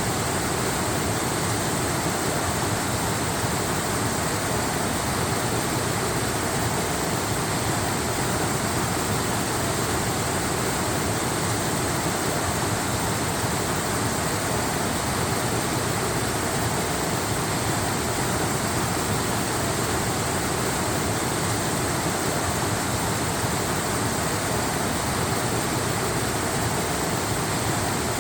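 Waterfall running steadily: an even, unbroken noise of falling water with no changes.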